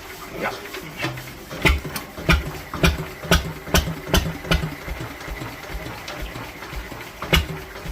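Lister CS slow-speed stationary diesel engine catching on a cold start and firing on its own: loud separate exhaust beats that quicken to about two or three a second, falter into weaker, uneven beats for a couple of seconds, then pick up strongly again near the end.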